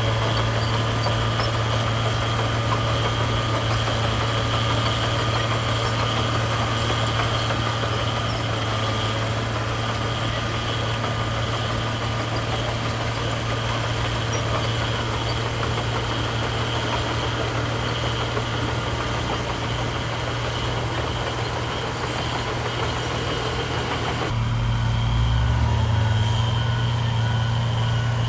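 Heavy diesel engine of construction machinery running steadily, with a constant low drone and a steady higher whine. About 24 seconds in the sound changes abruptly to a deeper, uneven engine note.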